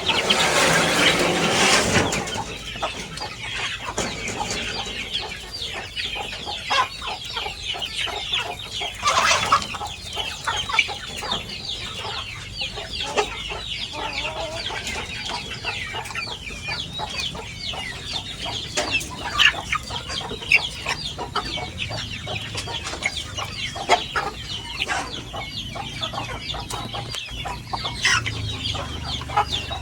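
A large flock of free-range village chickens (ayam kampung) clucking and calling over one another without pause, with louder bursts of noise in the first two seconds and again about nine seconds in.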